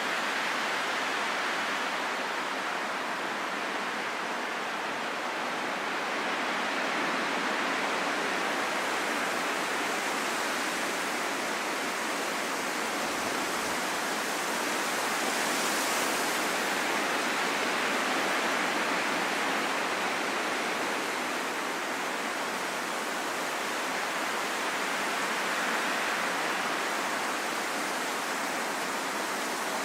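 Steady wind rushing, an even hiss that swells slightly now and then.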